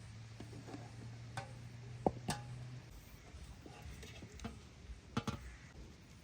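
A few sharp clicks and knocks, the loudest in two quick pairs about three seconds apart, over a low steady hum that stops about three seconds in.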